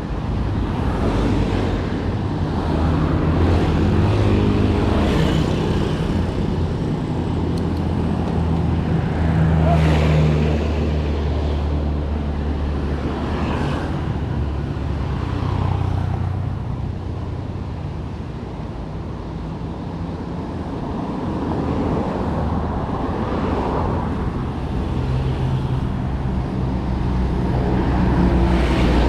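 Road traffic: motor vehicle engines running and passing close by, their pitch rising and falling as they go.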